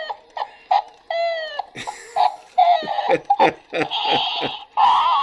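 Pet parrot calling, a quick string of short pitched squawks, some falling in pitch, with harsher, noisier calls in the second half.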